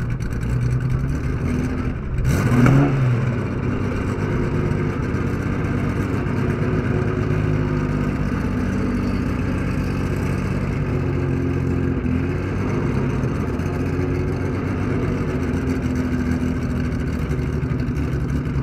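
Air-cooled Porsche 911 flat-six engine idling steadily, with one quick blip of the throttle about two seconds in that rises and falls back to idle, and a few lighter swells in revs later.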